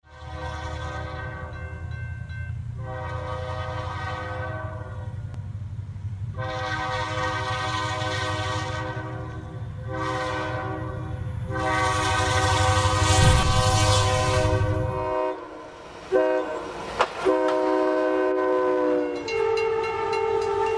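Locomotive horn sounding a chord in a series of long blasts over the low rumble of a moving train. The rumble stops about fifteen seconds in, and the last blast sags in pitch as it dies away.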